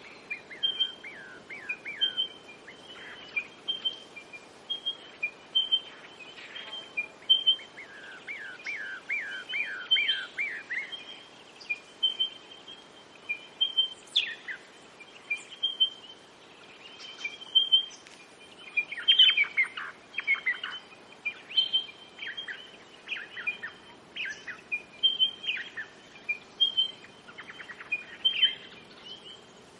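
Birds singing: a short high chirp repeated about once a second, with runs of quick falling notes every few seconds, over a faint steady rush.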